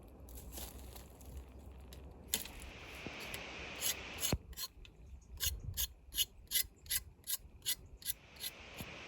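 Liver kebab sizzling as it cooks, a steady hiss, with a run of rhythmic rasping strokes, about three a second, through the second half.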